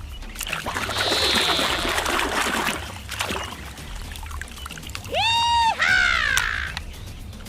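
Water pouring and splashing for a couple of seconds. About five seconds in come two short, high whistle-like tones that rise, hold and fall.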